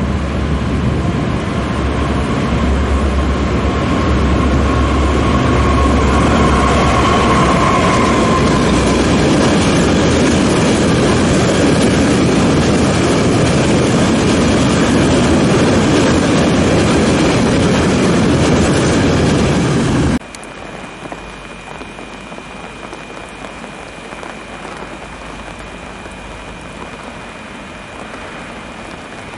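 A diesel locomotive hauling a long train of tank wagons passes close by: a heavy, steady engine rumble and the continuous rolling noise of the wagons over the rails, with a tone standing out partway through. About twenty seconds in it cuts off suddenly to steady rain falling, with a faint, steady high whine from an SNCF class 186 electric locomotive drawing in.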